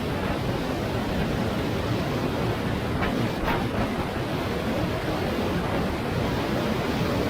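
Steady rush of wind and road noise on the microphone while riding a Yamaha T-Max 500 maxi-scooter, with no clear engine note standing out.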